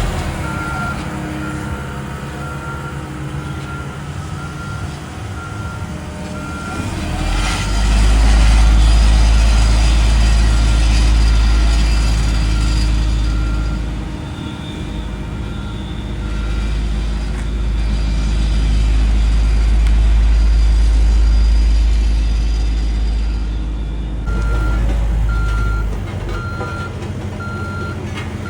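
Heavy diesel construction machinery running with a backup alarm beeping steadily, about one beep a second. The beeping stops about halfway through and starts again near the end. The deep engine rumble swells louder twice, as the machine works under load.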